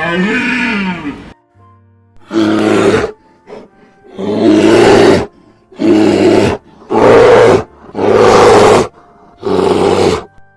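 A cow's moo trails off about a second in, then a big cat roars six times in short, loud bursts with pauses between.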